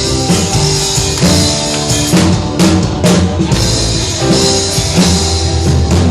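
Rock band playing an instrumental passage between vocal lines: drum kit with bass drum and snare hits keeping a steady beat, under bass and sustained chords.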